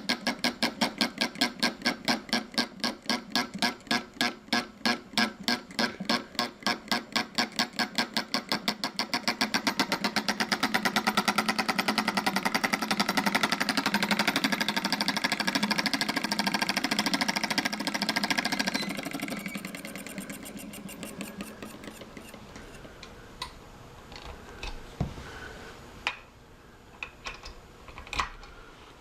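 12-volt model solenoid engine running: a rhythmic clacking that speeds up until the strokes blur into a steady buzz, then winds down and stops about two-thirds of the way through, leaving a few scattered clicks.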